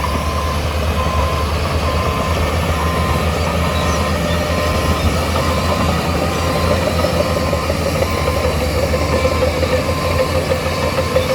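Heavy diesel engine of a construction machine running steadily, with its reversing alarm beeping about twice a second while it backs up.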